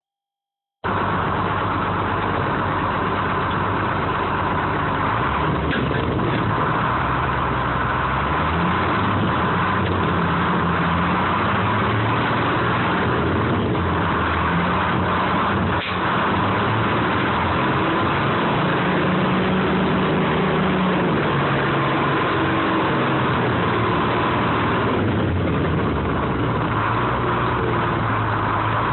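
Engine of a 1970 American 7510 crane running steadily, its pitch rising and falling as the machine works. It starts about a second in.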